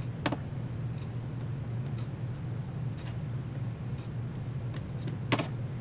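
A few sharp metal clicks, the loudest near the end, as small nippers snap at tacks in an old hinge without getting enough grip to pull them. A steady low hum runs underneath.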